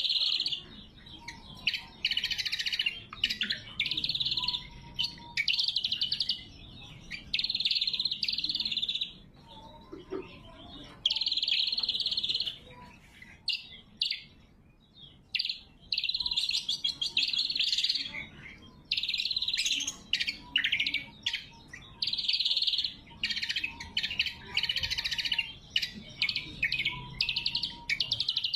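Greater green leafbird (cucak kombo) singing loud, sharp, fast-chattering high-pitched phrases, each lasting a second or two, with short pauses between them.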